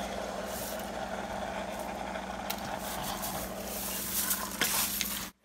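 Chicken and chopped greens sizzling steadily in a pan while a wooden spatula stirs them, with a couple of faint clicks of the spatula against the pan. The sound cuts off suddenly near the end.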